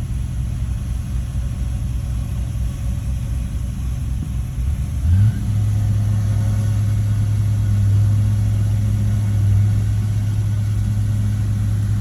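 Heavy earth-moving machine's diesel engine running at low revs, then revved up quickly about five seconds in and held steady at the higher, louder pitch.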